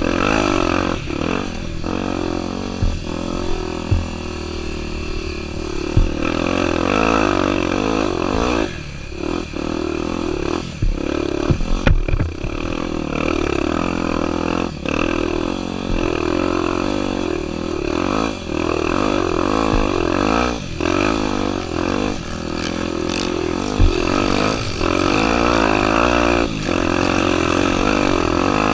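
Honda Tornado 250's single-cylinder four-stroke engine revving up and down as the motorcycle is ridden off-road, with sharp knocks and rattles from the rough ground now and then.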